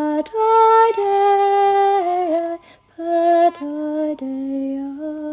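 A woman singing solo and unaccompanied in long, slow held notes, stepping between pitches. About two seconds in a note dips and wavers, followed by a short break for breath before the next held notes.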